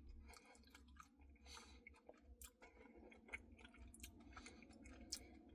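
Faint, close-up chewing of a cookie dough Blizzard: soft wet mouth noises with scattered small clicks, a couple slightly stronger near the middle and near the end.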